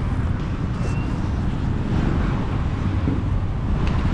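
Wind buffeting the microphone during a bike ride, a steady low rumble mixed with road noise.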